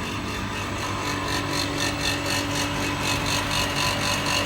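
Industrial electric drive motor running with a steady hum and whine over a fast, even pulsing of about four beats a second. It is flagged as making an unusual noise.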